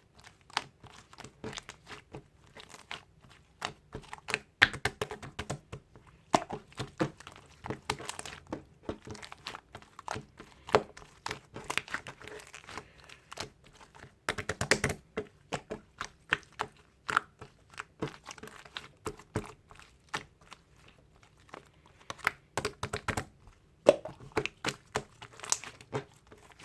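Slime being squished and pressed by hand, making an irregular stream of sharp clicks, pops and crinkly crackles, with a few louder pops now and then.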